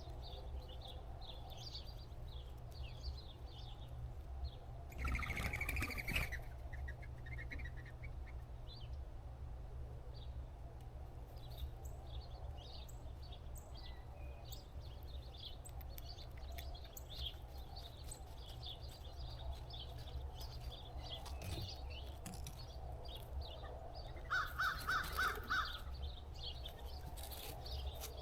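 Crows cawing: one harsh call about five seconds in and a quick run of four caws near the end, with small birds chirping faintly throughout over a steady low rumble.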